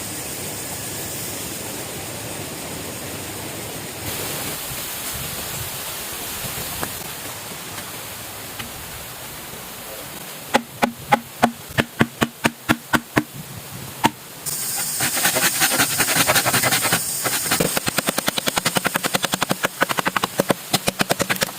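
A steady hiss, then about ten seconds in a run of quick, regular strokes, about four a second, on bamboo being cut with a hand tool. A few seconds later the strokes turn louder, rasping and faster.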